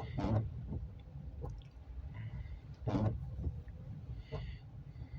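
Low rumble of a freight train rolling by, with a handful of separate knocks or clanks about a second or so apart.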